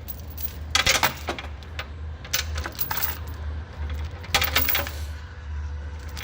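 Metal tow chain links clinking and rattling as they are handled, in short bursts about a second in, around two and a half seconds and about four and a half seconds in, over a steady low hum.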